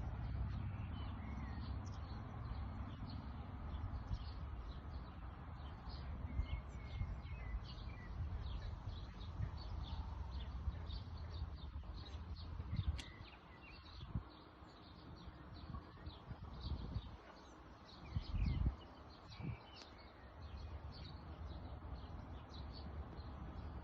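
Small birds chirping and calling, many short high chirps with a few gliding notes, over a steady low rumble. A few dull low thumps come in the second half.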